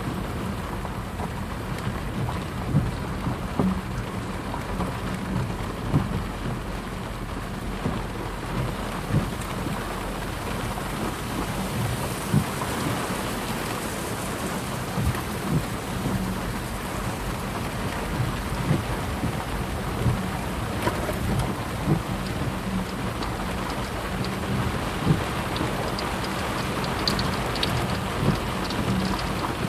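Rain falling steadily, an even hiss with frequent irregular louder knocks of drops striking a surface.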